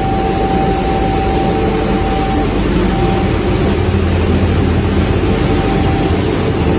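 Sandblasting equipment running: a loud, steady rush of compressed air with a constant whistling tone and a low hum.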